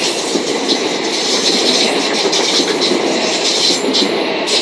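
Class 387 electric multiple unit running along the platform, its wheels clattering over the rail joints in a steady loud rumble with scattered clicks.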